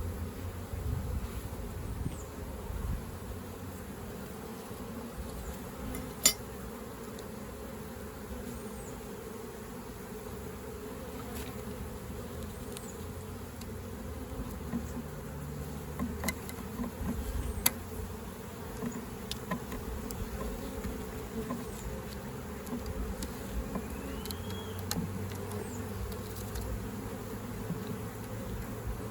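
A mass of honeybees buzzing steadily around an opened swarm trap and hive. A few sharp clicks cut through the buzz, the loudest about six seconds in.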